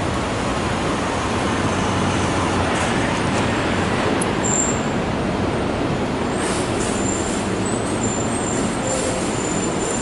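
A train running with a steady rumbling noise. From about two-thirds of the way in come short, high-pitched squeals of wheels on the rails.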